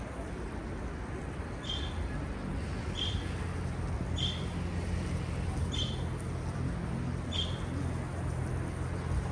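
A bird chirping: five short, high single chirps, evenly spaced about one every second and a half, over a steady low hum.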